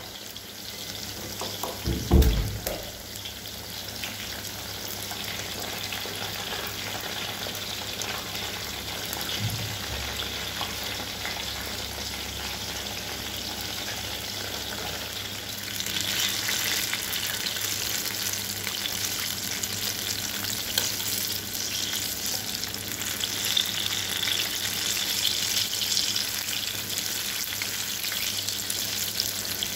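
Eggplant slices sizzling as they fry in hot oil in a pan, a steady hiss that grows louder about halfway through. A single thump about two seconds in.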